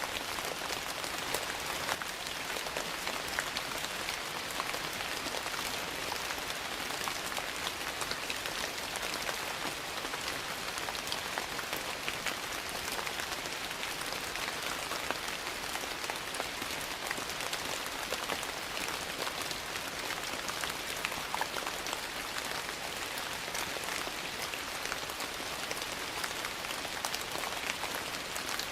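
Steady rain falling on a surface, an even hiss full of many small sharp ticks throughout.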